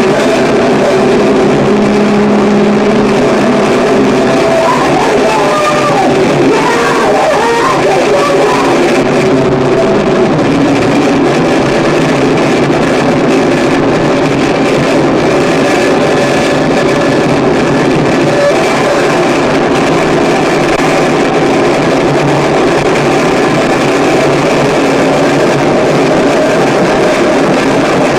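Harsh noise music: a loud, unbroken wall of distorted noise over layered droning tones, with wavering squeals about five to nine seconds in.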